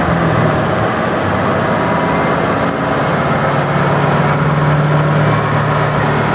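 Corvette ZR1's V8 running on a chassis dyno with a fairly steady engine note that eases down just after the start and climbs a little past the middle.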